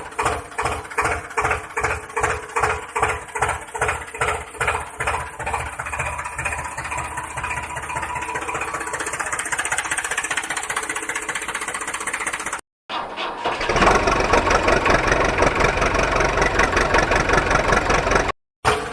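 Engine chugging at a slow, even beat of about two to three pulses a second. Partway through, an edit cut brings in a louder, busier engine sound. Another cut near the end returns the slow chugging.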